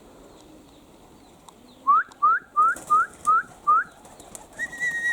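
Someone whistling: six short rising whistles in quick succession, then one long held whistle near the end.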